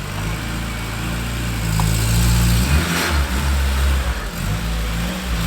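Car engine idling, its revs and loudness rising from about two seconds in with a short sharp peak near three seconds, then settling back to a steady idle.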